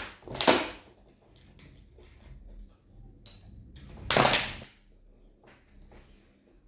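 Close-up eating sounds from a mukbang of pounded yam and egusi soup: mouth and eating noises with faint clicks, and short loud noisy bursts about half a second in and about four seconds in.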